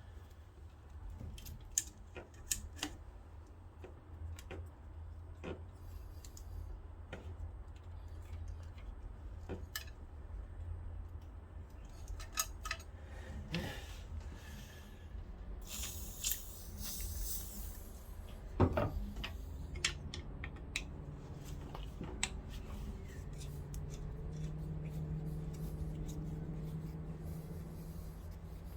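Metal hand tools clicking and clinking in irregular taps while fasteners are worked on the engine. About halfway there is a brief hiss and then one sharper click, and a faint steady hum comes in for the last third.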